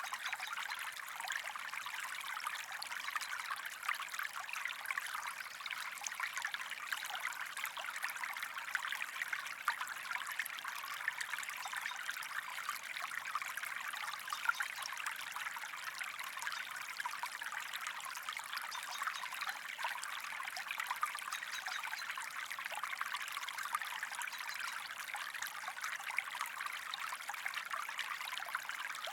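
Small stream running over rocks: a steady trickling and splashing of water that does not let up.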